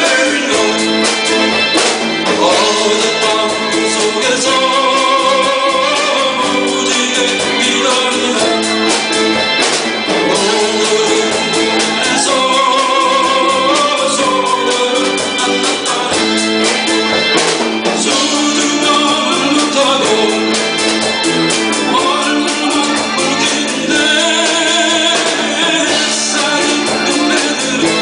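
A singer with a live band performing a Korean 1970s–80s pop song (7080 gayo), the sung melody over steady band accompaniment.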